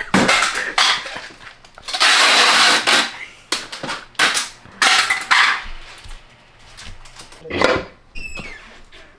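Metal engine parts and hand tools clinking and knocking on a workbench, with a couple of short loud hisses, the longest about two seconds in.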